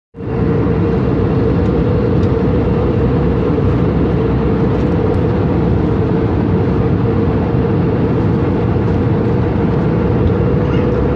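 Steady cabin noise of an airliner in flight: the even rush of engines and airflow, heaviest in the low end, with a steady drone on top.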